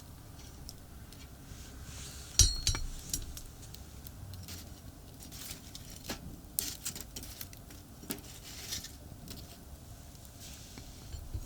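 Metal cooking gear being handled: scattered clinks and knocks, the loudest about two seconds in with a short ring, more between about six and nine seconds. A steady hum of distant highway traffic underneath.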